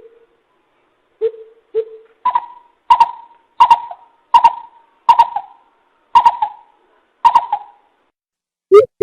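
Greater coucal (bìm bịp) hooting: a few low hoots, then from about two seconds in a spaced series of about seven higher hoots, each with an echoing tail.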